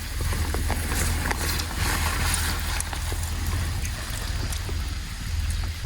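Wind buffeting the microphone in a steady low rumble, over an even hiss of rain with a few light ticks.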